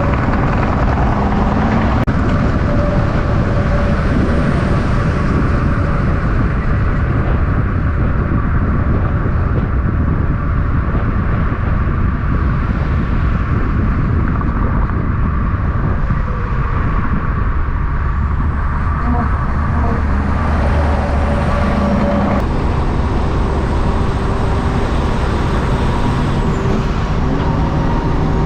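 Heavy trucks driving past on a road in steady traffic: a continuous loud rumble of diesel engines and tyres, with engine tones rising and fading as vehicles go by.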